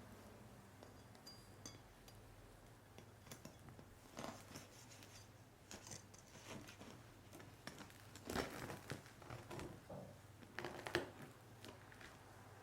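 Quiet kitchen handling: scattered soft clicks, rustles and light crunching, louder in two short clusters near the end.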